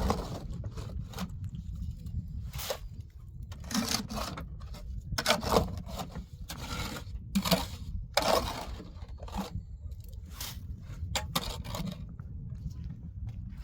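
Irregular scraping strokes, about a dozen of them, a half second to a second and a half apart, over a steady low rumble.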